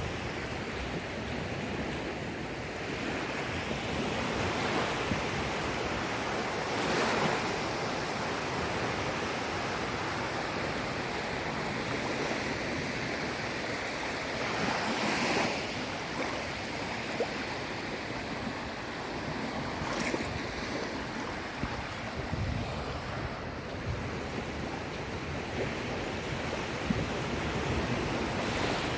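Sea waves breaking and washing on the shore, a continuous surf wash that swells twice, with wind buffeting the microphone.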